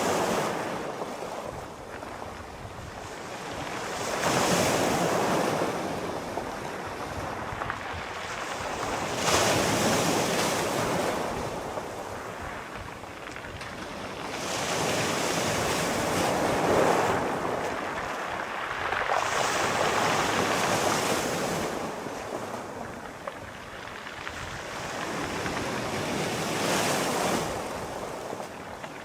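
Sea waves breaking and washing up on a shore, each surge swelling and fading away, roughly one every four to five seconds.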